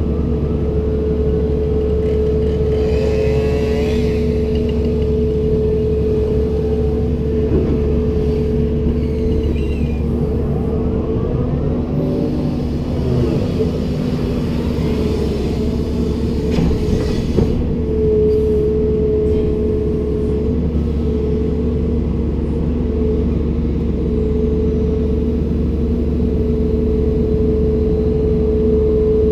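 Komatsu PC290-10 excavator's diesel engine running steadily under load, with a strong steady whine over the drone. A few tones rise and fall in pitch about three seconds in and again midway through.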